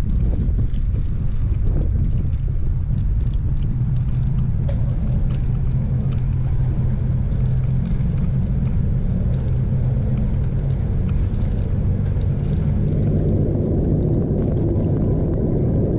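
Steady low rumble of wind buffeting a chest-mounted action camera's microphone while riding a bicycle, with the road noise of the ride underneath. The rumble broadens and grows about thirteen seconds in.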